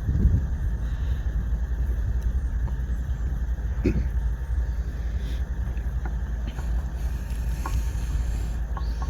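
Steady low rumble of a freight train rolling by, with a few faint ticks over it.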